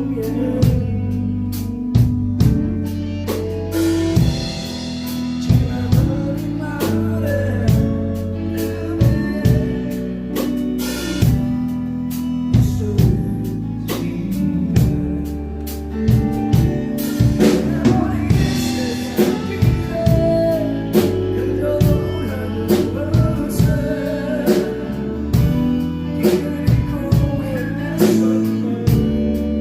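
A band playing a song: drum kit keeping a steady beat with snare hits, over bass and guitar, with a voice singing in parts.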